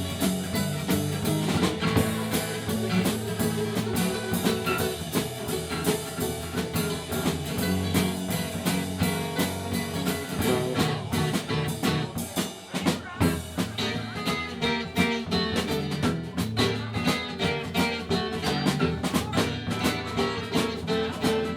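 Live band playing an instrumental break between verses: guitar over a steady drum-kit beat, dropping out briefly about twelve seconds in.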